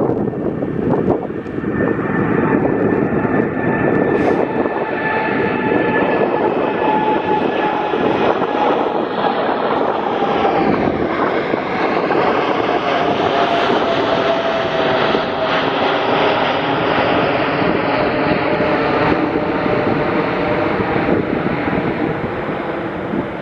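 Boeing 747-8F's four GEnx turbofan engines at takeoff power: a loud, steady jet roar with whining tones that slowly fall in pitch as the aircraft goes past.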